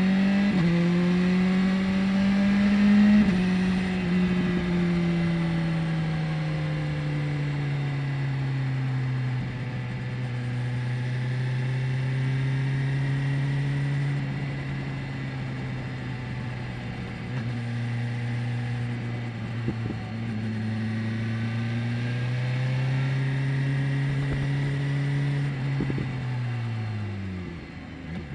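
BMW S1000R's inline-four engine under way. It pulls up through the revs in the first few seconds and dips briefly about three seconds in, then cruises at fairly steady revs with small rises and falls. Near the end the revs drop away as the throttle is rolled off.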